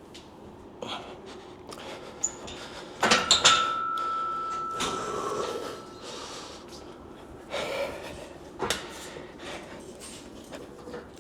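Barbell and plates knocking and clanking during a heavy back squat set. The loudest clank comes about three seconds in and leaves a metallic ring for a few seconds. Forceful breathing and grunts of effort come between the knocks.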